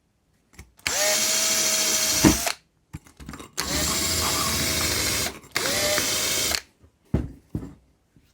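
Small electric power tool, drill-type, run in three bursts, each spinning up to a steady whine, followed by a few light knocks. It is cleaning paint out of the ball joint bores of a suspension arm so the new ball joints will fit.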